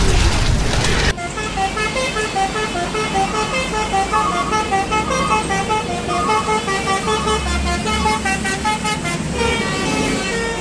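A loud rushing noise cuts off suddenly about a second in. Then a multi-tone bus telolet horn (Basuri-style musical horn) plays a fast tune of short, clipped notes.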